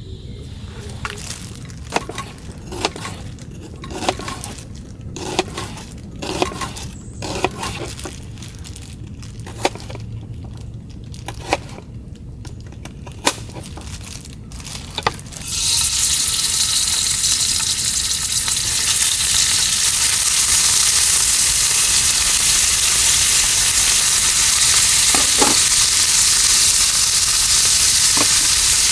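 Scattered clicks and knocks of cookware being handled, then about halfway through food goes into a hot pan and starts sizzling loudly and steadily.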